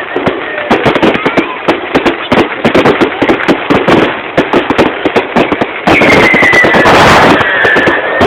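Fireworks crackling, a dense run of rapid sharp pops. About six seconds in, a louder whistling firework joins, its pitch falling slowly for about two seconds over the crackle.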